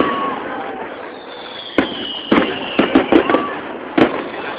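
Fireworks display: sharp bangs of bursting shells, several in quick succession in the middle and another near the end, over steady crackling, with a high whistle that slowly falls in pitch.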